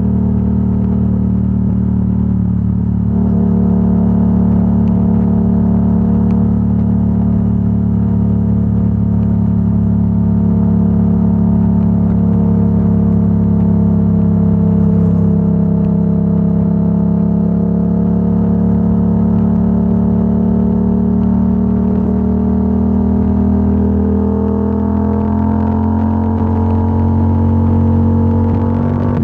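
Yamaha R7's 689 cc parallel-twin engine through a Yoshimura AT2 full exhaust, running at a steady cruise. The note sags slightly midway, then rises gradually in the last several seconds as the bike speeds up.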